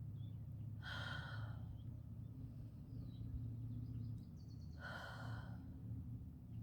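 A person's deep breaths while holding a yoga pose: two slow, audible breaths, about one second and five seconds in. A steady low hum runs underneath.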